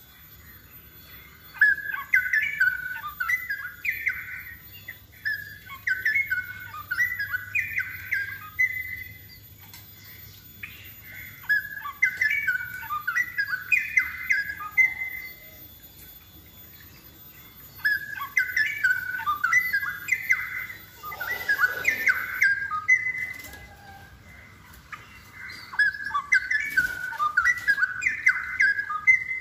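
Straw-headed bulbul (cucak rowo) singing in energetic bouts of rapid, bubbling warbled notes, four phrases of several seconds each with short pauses between.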